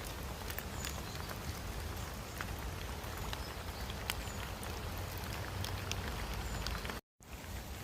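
Steady rain falling in woodland, with many separate drops ticking sharply over an even hiss and a low rumble underneath.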